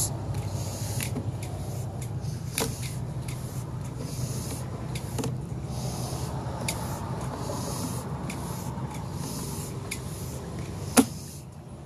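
Sewer camera push cable being fed through the line by hand, giving repeated short rubbing and scraping strokes and light clicks over a steady low hum. A sharp click about 11 seconds in is the loudest sound.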